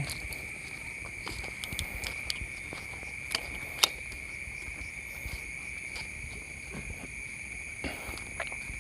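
Steady high-pitched drone of night insects such as crickets, with scattered faint clicks and rustles and two sharper clicks close together a little over three seconds in.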